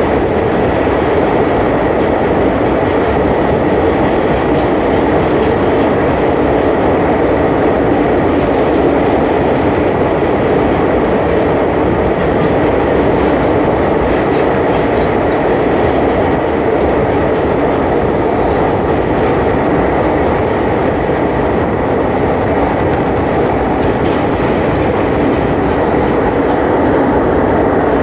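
A moving train running steadily: a loud, continuous rumble of wheels on track that does not change for the whole stretch.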